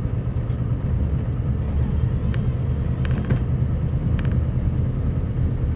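Scania R560 plow truck's V8 diesel running steadily under load, a low drone, with a few sharp knocks and rattles in the middle as the truck bounces over the rough road.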